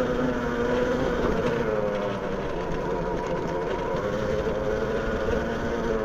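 A vehicle's motor running while on the move: a steady pitched hum whose pitch drifts slightly up and down over a bed of rumble.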